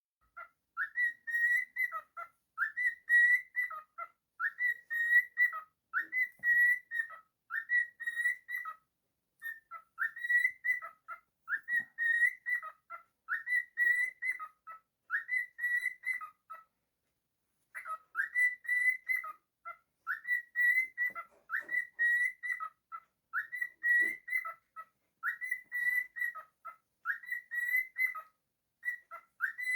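Cockatiel whistling the same short tune over and over, about one phrase every two seconds, with a brief pause about halfway through.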